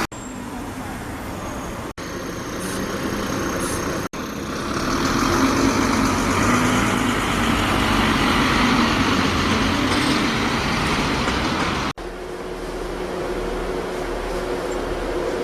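Bus engines and road traffic in a string of short clips cut together. The loudest stretch, from about four seconds in until a cut near twelve seconds, is a bus engine running close by.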